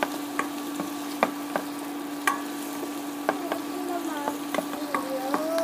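Chopped garlic and onion sizzling in hot oil in a pan, with a spatula clicking and scraping against the pan at irregular moments as it is stirred. A steady low hum runs underneath.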